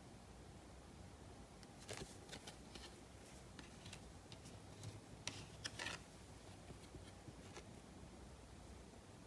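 Faint, irregular clicks and short rustles of trading cards and their packaging being handled, clustered in the middle seconds.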